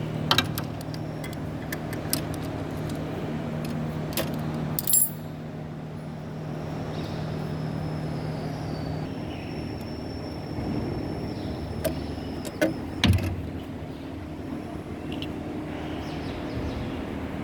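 Hand tools working on an engine while a fuel pump is being removed: several sharp metallic clinks and clanks, two of them louder about thirteen seconds in. Under them runs a steady low machine hum that stops about nine seconds in.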